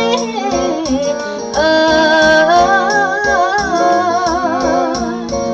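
Thai song: a singer draws out a long wordless vowel, sliding down and then holding notes with a wide vibrato, over plucked-string and keyboard accompaniment with a steady beat.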